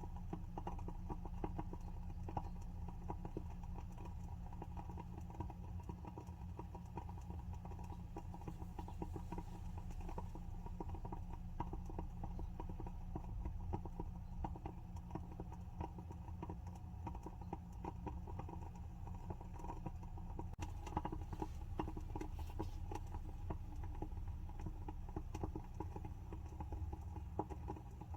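WoodWick candle's wooden wick crackling as it burns: a steady stream of small, quick pops and ticks.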